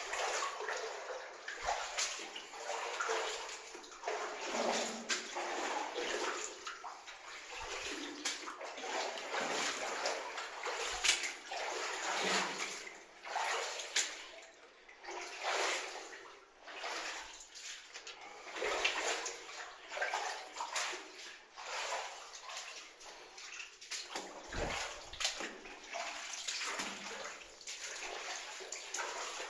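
Feet wading through water in a flooded mine tunnel, an irregular run of sloshing splashes about one a second.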